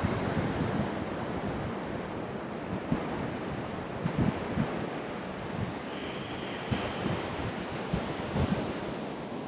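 Steady wash of surf with wind buffeting the microphone. For the first two seconds there is a high hiss of breath drawn in through clenched teeth, the inhalation of Sitkari pranayama.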